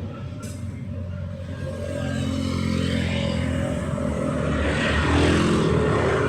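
A motor vehicle's engine running with a steady low hum that grows louder from about two seconds in, as it comes close.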